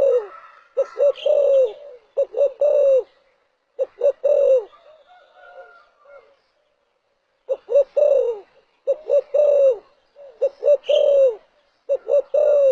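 Spotted dove cooing: repeated phrases of a few short coos ending in a longer, falling coo, with a pause of about a second and a half in the middle.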